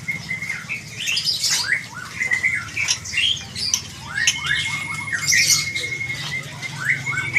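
Many caged songbirds calling at once: short overlapping squawks and chirps, with one bird holding a steady trill for over a second about four seconds in. A low steady hum runs underneath.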